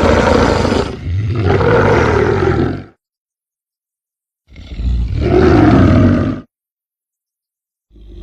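Edited roar sound effects for a cartoon bear character, made to sound like a black panther. Two roars come back to back, then after dead silence a third about four and a half seconds in, and a fourth starts just before the end.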